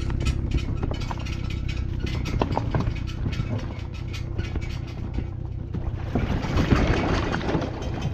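Fishing kayak moving across the water: a steady low hum with a fast run of clicks, and a rush of water splashing about six seconds in.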